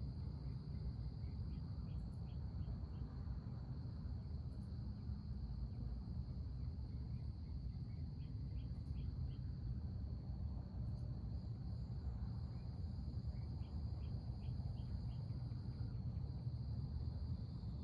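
Steady high-pitched insect chorus, like crickets, over a constant low rumble. Three short runs of quick chirps come about 1.5, 8.5 and 14 seconds in.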